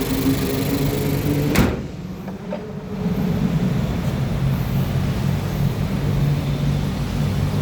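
Nissan Qashqai's 1.2-litre petrol engine idling steadily. There is a single sharp knock about one and a half seconds in, after which the sound is briefly quieter.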